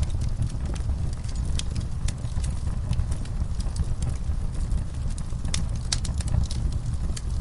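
Layered fireside-and-stable ambience: a steady low rumble with scattered sharp crackles and knocks, from a crackling fire and horses shifting in a stall.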